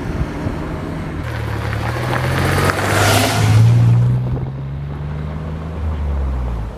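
A car driving off: its engine speeds up, rising in pitch for a few seconds, then runs steadily, with a rush of road and wind noise that peaks about three seconds in.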